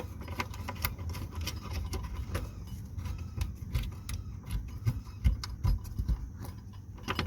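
Light metallic clicks and rattles of a handbrake cable and its fittings being worked into place under a car, with a few dull knocks over a low rumble.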